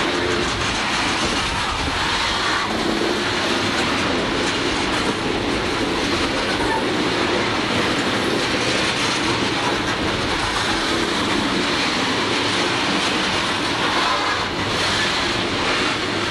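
CSX freight train of open-top hopper cars rolling past at close range: a steady clatter and rumble of steel wheels on the rails.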